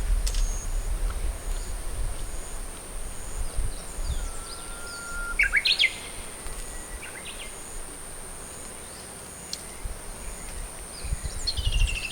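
Wild birds calling: a rising whistled call about five seconds in and a fast trill near the end. Under them run short, evenly repeated high notes, a steady high-pitched tone, and low rumbling at the start and again near the end.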